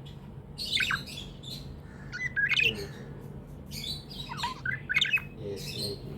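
Budgerigars chirping and squawking in a string of short, sharp calls.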